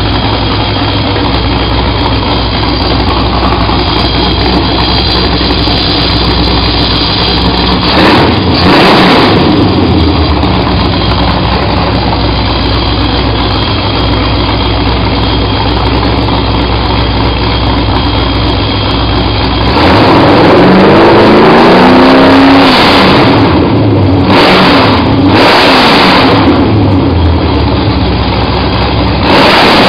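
Ford 351 Windsor V8 with a four-barrel carburetor running on an engine stand: idling steadily, with a short throttle blip about eight seconds in, then a longer rev whose pitch climbs and falls from about twenty seconds, followed by several shorter blips near the end.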